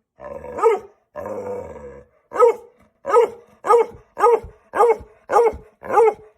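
A dog barking: a rising call and a longer rough grumble, then a run of seven sharp barks about every half second.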